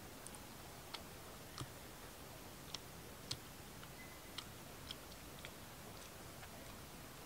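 Faint, irregular crisp clicks, roughly one every half second to a second, from a person chewing pieces of pan-fried fish.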